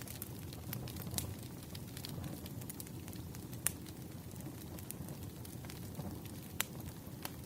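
Wood fire burning, a steady low hiss and flutter of flames with irregular sharp crackles and pops, a few louder snaps among them.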